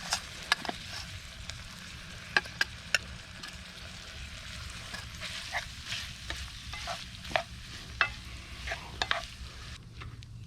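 Food sizzling in a pan over a campfire while it is stirred, the utensil clicking and scraping against the pan a dozen or so times. The sizzle drops away abruptly near the end.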